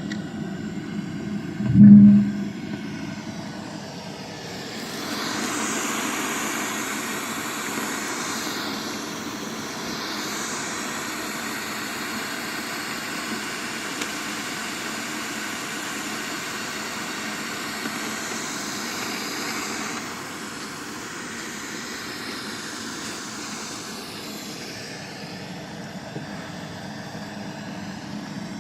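Sound picked up by a microphone down an 18 m borehole and played through a loudspeaker: a steady rushing rumble with a faint hum, swelling into a louder hiss from about five seconds and easing back near twenty, with a brief low thump about two seconds in. The group takes it for sound from an underground tunnel; the defence ministry calls it wind.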